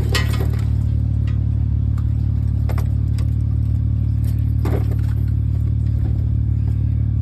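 Steady low drone of a vehicle's engine and road noise heard from inside the cab, with a few brief knocks or rattles.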